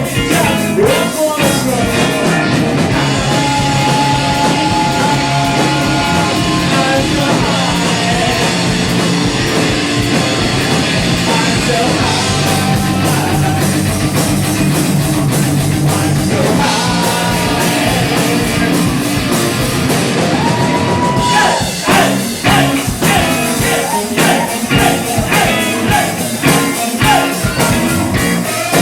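Live rock band playing a song: loud electric guitars, bass and drums with sung vocals, heard through a room recording. The texture turns choppier and more rhythmic about three quarters of the way through.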